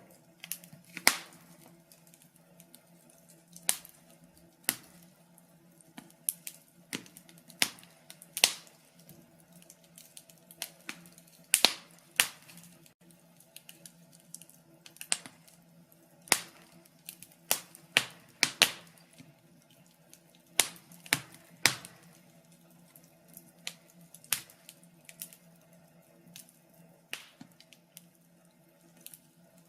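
Wood fire crackling: irregular sharp pops and snaps, from a few a second down to long gaps, some much louder than the rest, over a faint steady hum.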